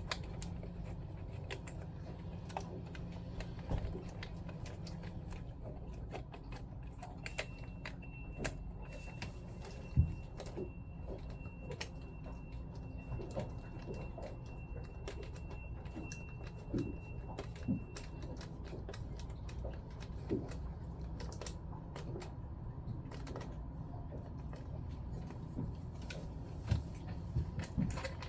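Scattered small clicks, taps and knocks of pump parts and tools being handled during a diaphragm pump repair, one sharper knock about ten seconds in, over a steady low hum. A faint steady high tone sounds through the middle third.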